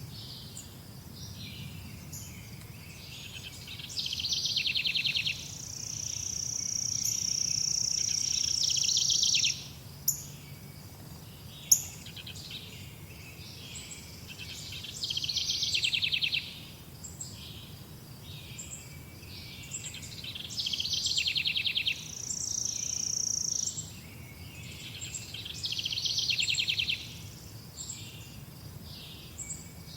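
Songbirds singing outdoors: a high, trilled phrase repeats every few seconds, with a long, steady, high-pitched note held for several seconds twice. Two sharp clicks sound near the middle over a faint, steady low background rumble.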